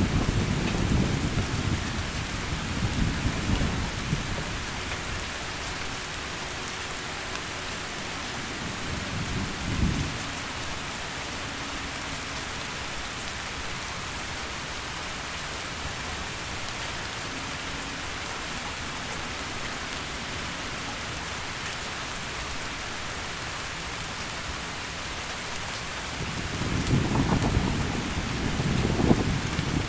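Heavy rain falling steadily, with rolling thunder rumbling low at the start, once briefly about a third of the way in, and again near the end.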